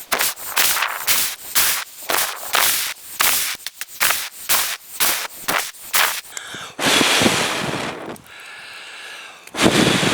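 Puffs of breath blown onto a hot coal resting in a wooden spoon blank to keep it burning out the bowl: about two short puffs a second for some six seconds, then two longer blows.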